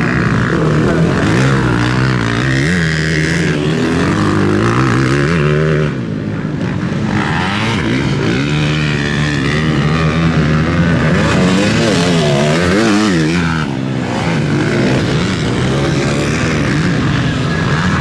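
Motocross bikes racing on a dirt track, several engines revving hard and easing off again and again as they accelerate, shift and brake.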